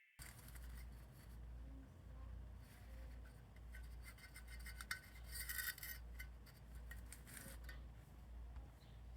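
Faint handling noises: rubbing and light clicks, busiest about five to six seconds in, over a low steady hum.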